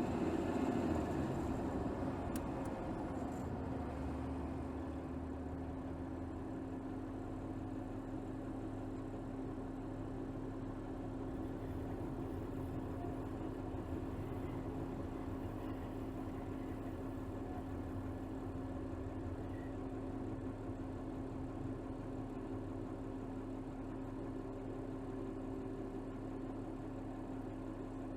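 Mercedes GLS 450's turbocharged 3.0-litre inline-six with EQ Boost mild hybrid, heard from under the bonnet, running steadily at low revs with a constant hum. It is a little louder in the first couple of seconds, then settles and holds even.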